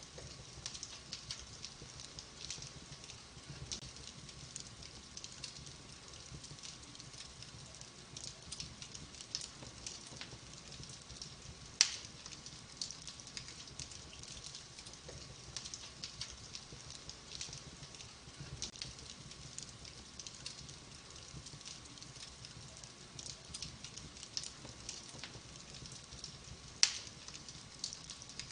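Wood fire burning in a fireplace, crackling with many small snaps, and two louder pops, one about twelve seconds in and one near the end.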